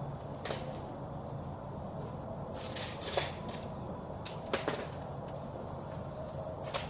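Scattered light metallic clinks and knocks of hardware being handled, several close together near the middle, over a steady low hum.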